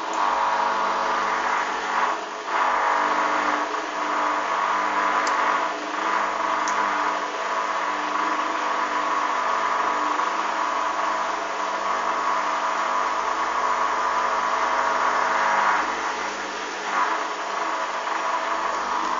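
Hoover washing machine's motor running loudly and steadily with a hum, starting abruptly just before and dipping slightly in level now and then.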